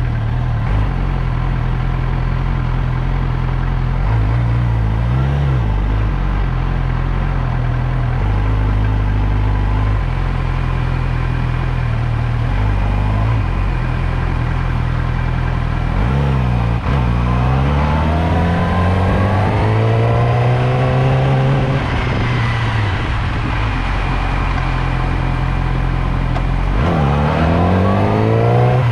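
Motorcycle engine running during a ride, holding a steady pitch for a while. About sixteen seconds in it drops, then revs up and eases off over several seconds, and it revs up again near the end.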